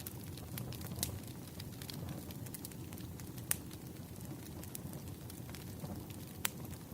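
Wood fire crackling: irregular sharp pops and snaps over a low, steady rumble of burning logs, with a few louder pops.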